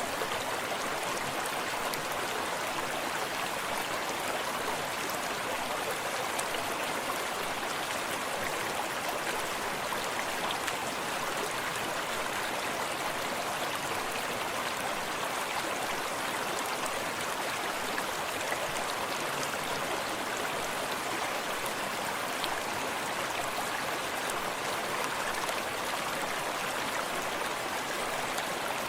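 Forest stream running steadily over stones, a continuous even rush of water with soft lapping and gurgling close by.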